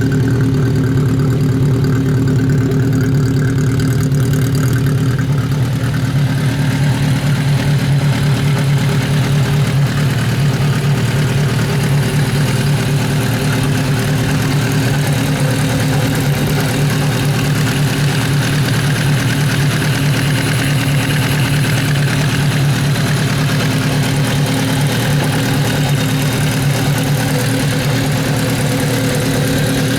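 Kawasaki Z500 racer's air-cooled inline-four engine idling steadily, holding an even rpm throughout.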